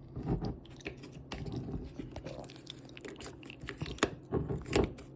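Popcorn crunching and rustling in light, irregular clicks, with a few sharper crunches standing out.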